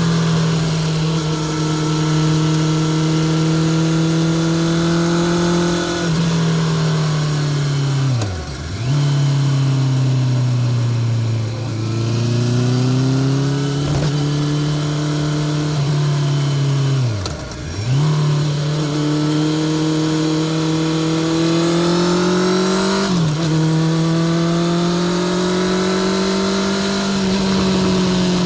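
Honda CBR650R's inline-four engine with a Spark full titanium short exhaust, running at steady revs while riding. Its pitch drops sharply and comes straight back up twice, sags and climbs again once in the middle, and dips briefly near the end.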